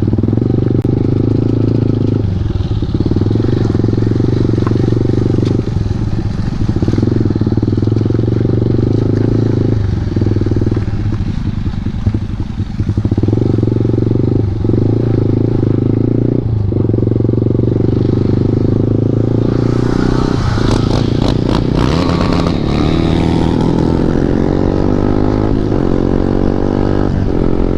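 KTM 390 Duke single-cylinder engine running loud through an Akrapovic exhaust with the dB killer removed, ridden at a steady pace with several brief dips in the engine note. About twenty seconds in, the revs shift and a run of sharp pops, backfire from the exhaust, comes through.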